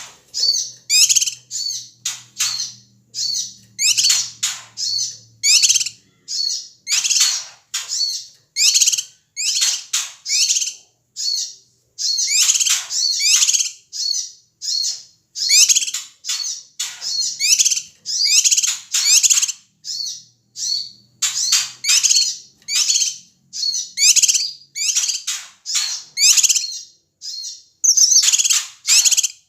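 Cucak kinoi calling noisily: a steady run of short, harsh, chattering bursts, about one or two a second. These are the bird's agitated alarm calls, used as a lure to provoke other songbirds.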